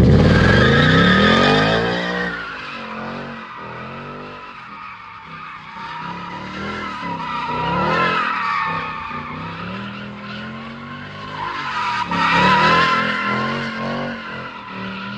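A car's tires squealing in long wavering screeches as it skids, with its engine revving underneath. The squeal is loudest at the start, fades, and swells again twice, about halfway through and near the end.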